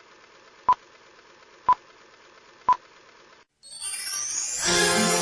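Short electronic beeps, one a second, three in all, over a steady hiss. Both cut off suddenly about three and a half seconds in, and music starts with a rising sweep and builds up.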